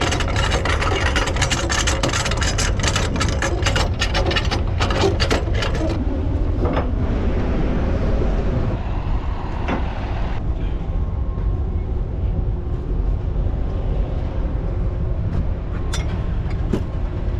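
Semi truck's diesel engine idling with a steady low rumble. For about the first six seconds a dense rapid clatter of clicks rides over it, then it settles to the idle with a couple of single clicks near the end.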